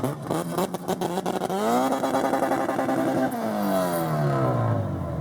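A car engine revving hard, its pitch climbing, holding, then falling away over a couple of seconds, after a second or so of sharp crackles.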